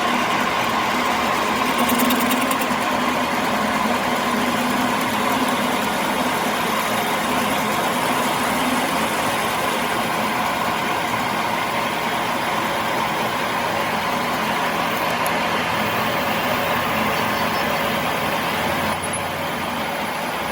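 A workshop machine running steadily with a loud, even noise, switched on a second earlier; its level dips slightly near the end.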